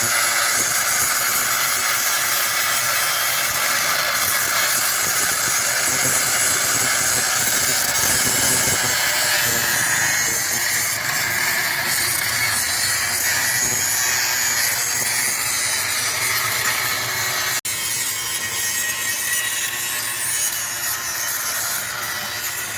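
A power tool running steadily under load, with a brief break about three-quarters of the way through.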